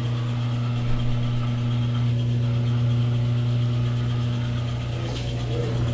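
Consul Super Mare 10 kg washing machine running its spin cycle: a steady, unbroken motor hum.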